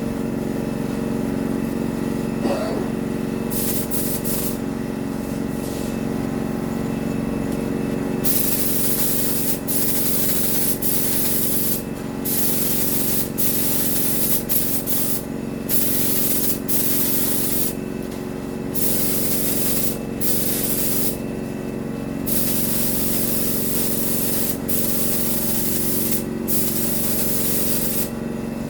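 Paint spray gun hissing as it sprays, the trigger pulled in long passes broken by short pauses, over a steady machine hum.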